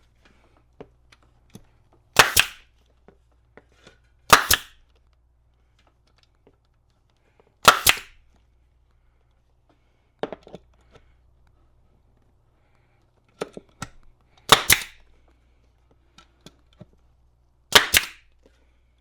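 Pneumatic staple gun firing staples through a seat cover into the seat pan: five loud sharp shots a few seconds apart, with a couple of softer ones and small handling clicks between.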